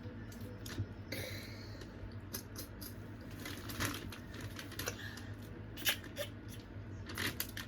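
Crab and shrimp shells cracking and clicking as they are pulled apart by hand, with a few louder snaps in the second half.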